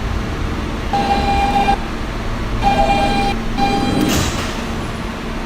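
Inside a stopped R160B subway car: three steady, held tones at the same pitch sound about a second apart over the car's low rumble, and a short sharp hiss of air follows right after the third.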